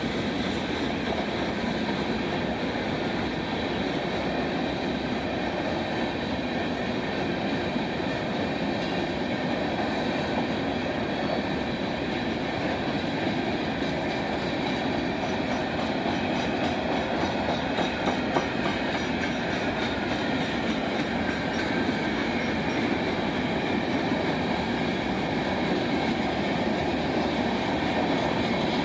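Railroad cars rolling steadily along the track, an even rumble of steel wheels on rail that holds at the same level throughout.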